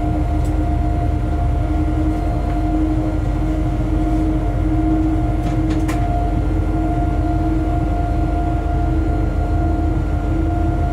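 Freight train locomotive running at steady speed: a continuous low rumble under a constant electric hum of several steady tones, with a few faint clicks about half a second and six seconds in.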